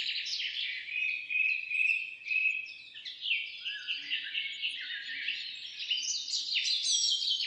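A chorus of small birds chirping and singing together: a dense, overlapping run of short high chirps and trills.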